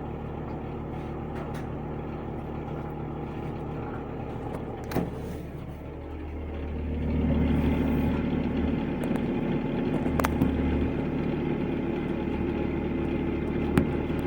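Engine running steadily with a low hum, getting louder about seven seconds in, with a few sharp clicks over it.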